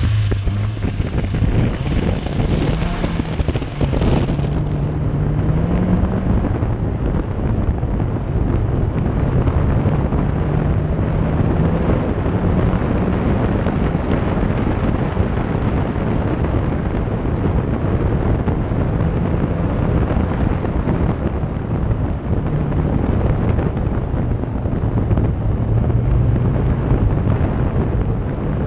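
Lada VAZ 2107's four-cylinder engine pulling at speed through the gears, its pitch climbing and dropping back several times, half buried under heavy wind noise on the microphone. There is a sharp knock about four seconds in.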